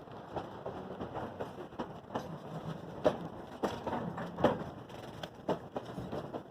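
Narrow-gauge train running, with irregular clanks and knocks over a steady rumble.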